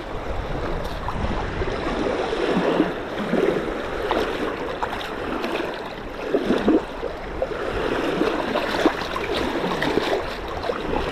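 Small waves washing and lapping at the shoreline in irregular swells, with wind buffeting the microphone as a steady low rumble.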